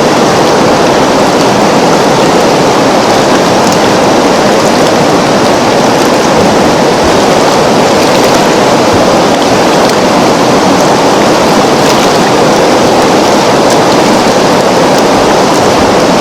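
River water flowing steadily, an even rushing sound with faint scattered splashes and drips.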